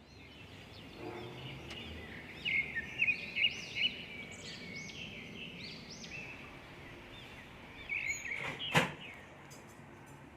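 Pet budgerigars chirping and chattering softly in quick, short arched notes. A single sharp click near the end.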